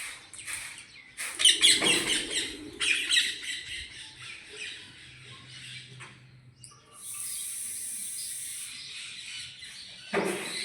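Pet parrot squawking in a run of harsh, loud calls, then weaker ones, with another squawk near the end. A steady high-pitched hiss lasts about two and a half seconds before that last call.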